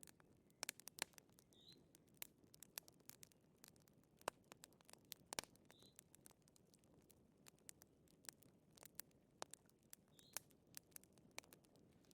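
Wood fire crackling softly in a fireplace: irregular sharp pops and snaps, some in quick clusters, over a low hiss, with a faint short high chirp about every four seconds.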